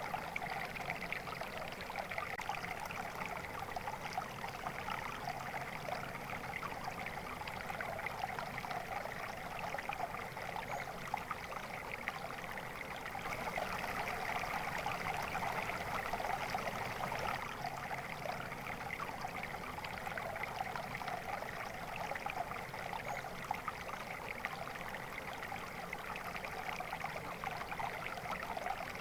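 Water flowing steadily over rocks in a stream, a continuous babbling and trickling.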